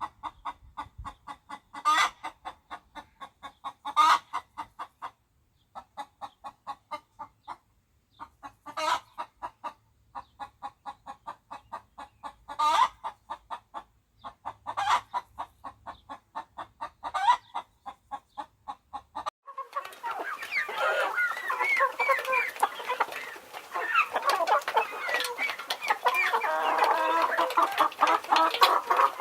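Domestic chicken clucking in quick runs, with a louder squawk about every two seconds. About twenty seconds in, it changes to the dense overlapping chatter of many chickens together.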